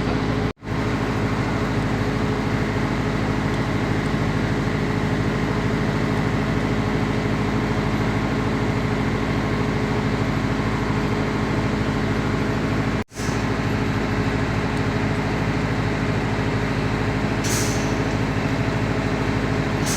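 A large engine running steadily with a constant drone. Near the end there is a brief burst of hiss.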